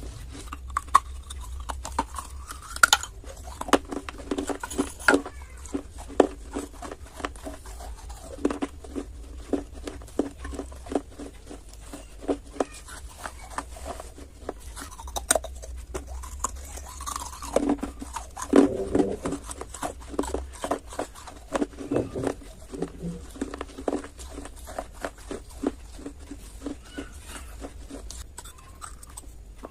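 A person biting and chewing crunchy clay close to the microphone: a quick, irregular run of sharp crunches over a low steady hum.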